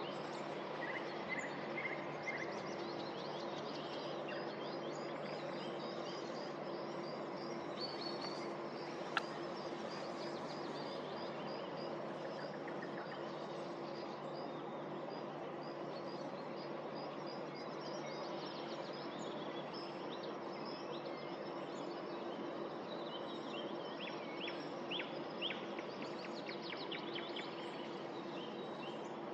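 Several songbirds singing over a steady low hum of city noise. The birds give runs of quick repeated high notes and, near the end, a cluster of sharp downward-sweeping notes, with one sharp click about nine seconds in.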